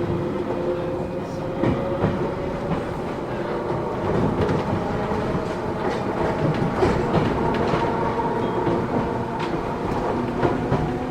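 Matsumoto Electric Railway 3000-series electric train running, heard from inside the passenger car: a steady whine from the traction motors and gears that drifts slowly in pitch, over wheel and rail noise with scattered clicks as the wheels cross rail joints.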